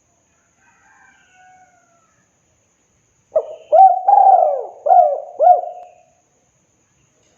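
Spotted dove (tekukur) singing its cooing song: a phrase of about six quick, hoarse coos in succession, starting about three seconds in. About a second in, a bird chirps faintly at a higher pitch.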